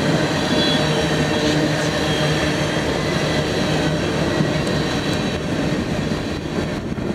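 A freight train of tank cars, boxcars and covered hoppers rolls steadily past with a continuous rumble of steel wheels on rail. In the last couple of seconds a run of sharp wheel clicks comes through more distinctly.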